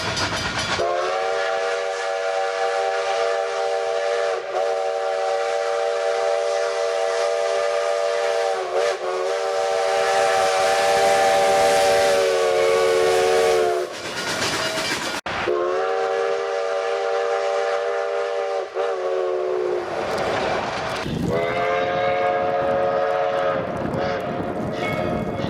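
Steam locomotive chime whistle sounding a multi-note chord: one long blast of about thirteen seconds that dips briefly twice, then two shorter blasts, over the hiss and rumble of the moving train.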